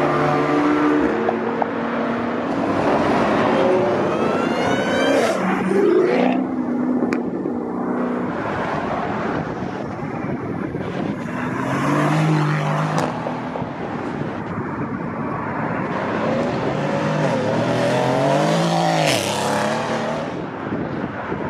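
Performance cars pulling away one after another, engines revving hard: the engine notes climb and drop back several times, the loudest rises about a third of the way in and near the end.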